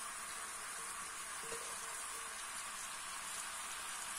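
Julienned beetroot frying in oil in a pan, a steady sizzle.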